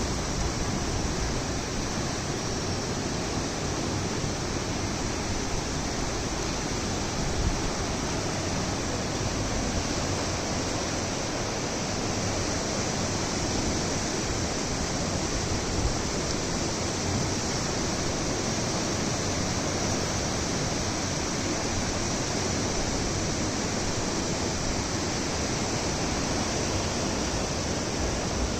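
Shallow river water flowing and rippling over stones, a steady rushing.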